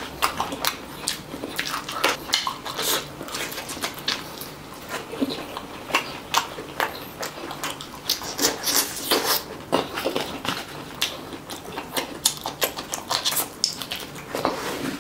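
Close-miked eating by hand: wet chewing and lip-smacking on mouthfuls of rice and chicken, with sticky squishing of fingers in the food, in a quick irregular run of smacks and clicks.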